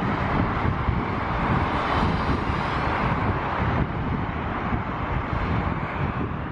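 Jet airliner engines passing, a broad rushing noise that swells about two seconds in and then eases, with wind buffeting the microphone.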